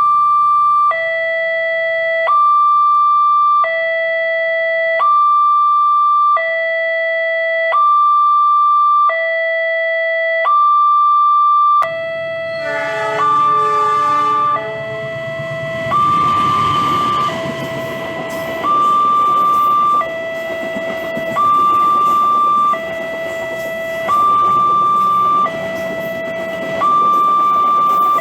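Railway level-crossing warning alarm sounding a rare high-pitched two-tone signal: a low and a high tone alternating, each held about a second and a half, steadily over and over while the crossing is closed. About halfway through, a brief horn-like chord sounds and then a steady rumbling noise joins under the alarm.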